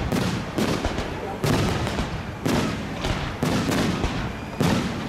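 Aerial firework shells bursting overhead in quick succession: about six sharp bangs roughly a second apart, each trailing off in an echo.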